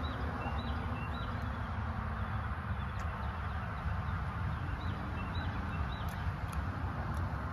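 Birds chirping in short, repeated calls, in one cluster at the start and another in the second half, over a steady low rumble of outdoor background noise. A few faint clicks come through in the second half.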